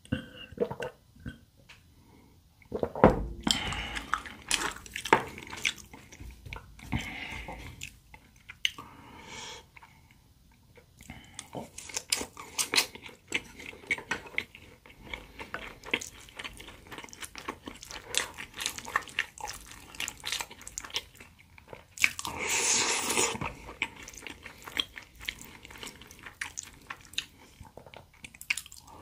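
Close-miked eating sounds: a person chewing and biting pan-fried potato and zucchini pancakes and rice, in irregular moist clicks and crackles with short pauses. Just past two-thirds of the way in comes a louder rush of noise lasting about a second and a half.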